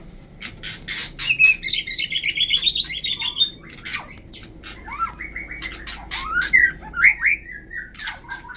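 White-rumped shamas calling: a stream of sharp clicks and chirps, with a rapid chattering run about a second in and short rising whistled notes past the middle.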